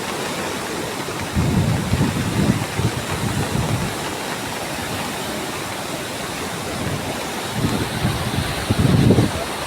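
Floodwater of a swollen river rushing in a steady, loud roar. Wind buffets the microphone twice, as low rumbling gusts.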